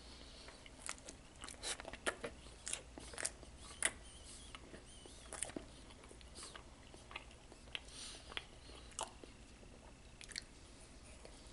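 A person chewing and biting a frosted cotton candy donut close to the microphone: soft, irregular mouth clicks and smacks.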